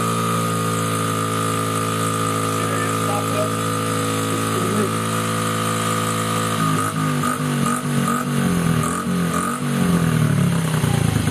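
Small motorbike engine idling steadily. About two-thirds of the way through it starts revving unevenly, the pitch rising and falling as the throttle is worked.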